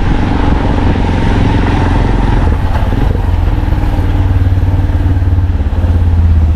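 Motorcycle engine running steadily, with a low even pulsing and some noise over it.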